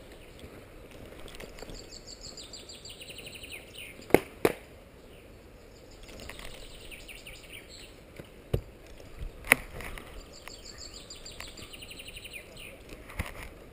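A songbird sings a fast descending trill three times, each about two seconds long. Five sharp knocks fall among the songs: two close together about four seconds in, two more near the middle and one near the end.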